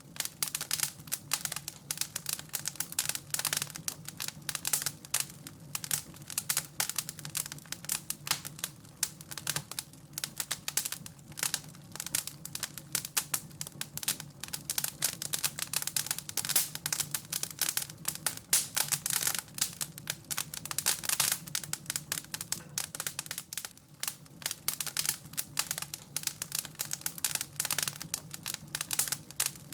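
Wood fire crackling in a fireplace, a dense, irregular run of small sharp crackles throughout, with a faint steady low hum underneath.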